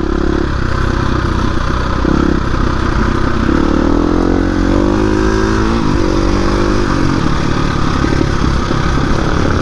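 Dirt bike engine running while riding, its revs climbing for a couple of seconds near the middle and then dropping back.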